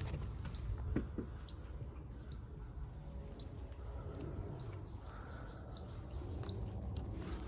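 A small bird chirping over and over in short, high cheeps, about one a second, with a few soft clicks between them.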